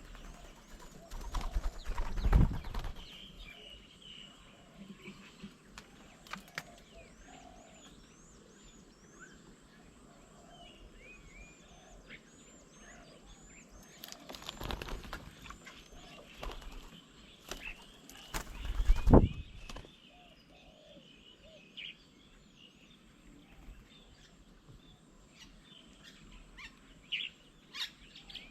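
Small birds at a bird table chirping over and over in short, high notes. Three loud, brief rushing bursts of low noise break in: one about two seconds in, one about halfway, and the loudest about two-thirds of the way through.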